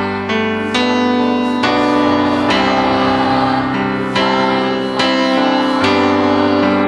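Piano or electric keyboard playing held chords, a new chord struck roughly every second.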